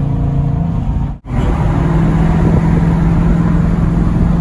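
Straight-piped Dodge Challenger exhaust drone, steady and loud while cruising. There is a brief dropout in the sound about a second in.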